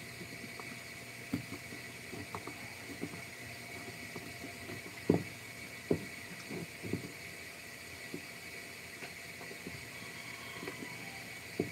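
Irregular light knocks and taps, with two louder knocks about five and six seconds in, over a steady high hiss.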